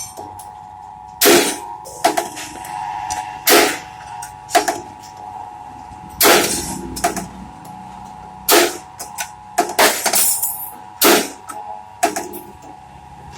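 Rebar stirrup bending machine on a trial run: about a dozen sharp metal clanks at uneven intervals of one to two seconds over a steady tone.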